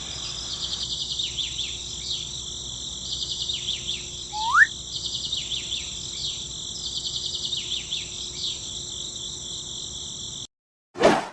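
Countryside ambience: steady high-pitched chirring of insects such as crickets, with bird chirps recurring about once a second and a single rising whistle about four seconds in. It cuts off abruptly near the end, followed by a brief whoosh.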